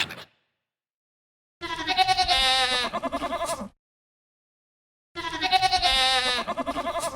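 Two long, wavering bleats from a bleating animal, each about two seconds long, with about a second and a half of silence between them. The two calls have the same shape.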